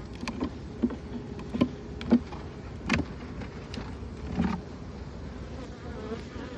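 Honeybee colony buzzing steadily in an open hive, with a run of sharp knocks and clicks from handling the hive, the loudest about two seconds in.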